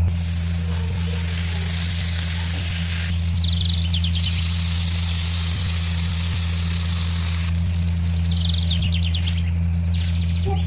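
Food sizzling in hot oil in a pan. The hiss changes abruptly about three seconds in and again near eight seconds, over a steady low hum.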